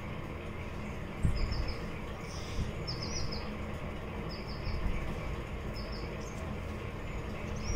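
A small bird chirping: a short, high three-note chirp repeated about every second and a half, over a steady low rumble.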